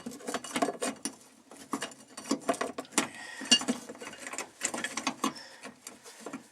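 Irregular clicking and rattling of a sheet-metal plate and fittings being handled and worked into place over an in-tank fuel pump.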